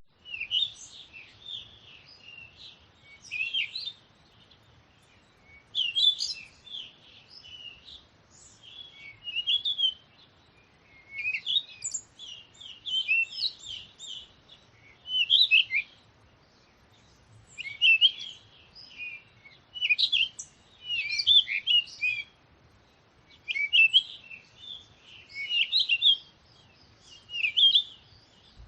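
Songbird singing: short, high twittering phrases repeated roughly every two seconds, with quiet gaps between them.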